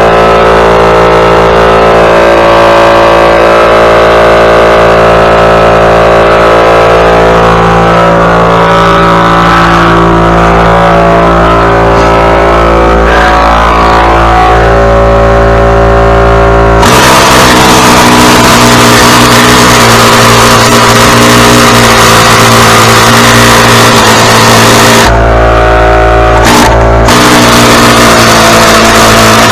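Small gasoline engine running loud and steady, close to the microphone. About two-thirds of the way through it turns abruptly rougher and noisier.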